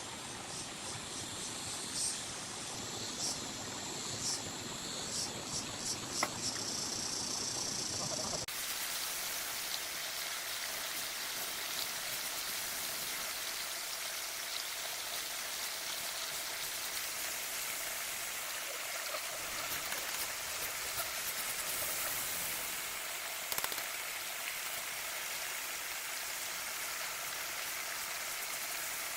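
Scattered sharp knocks and taps at first, then about eight seconds in an abrupt change to a steady hiss of water, from rain or a running stream.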